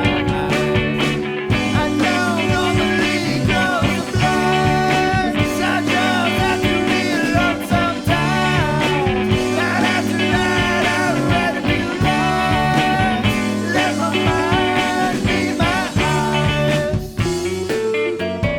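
Indie rock band playing a song. A melodic lead line bends up and down in pitch over a steady bass and faint percussion.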